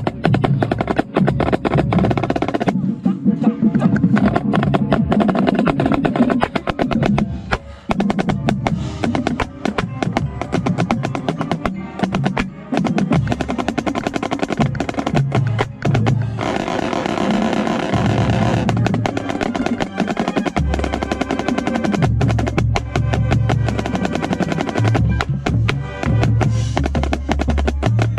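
Marching snare drum played right at the microphone, fast strokes and rolls, over the full marching band's brass and bass drums.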